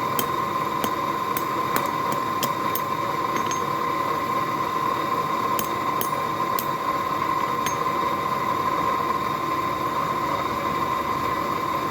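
A forge running with a steady hum and a clear whine, with scattered sharp clicks in the first few seconds and again around six seconds in.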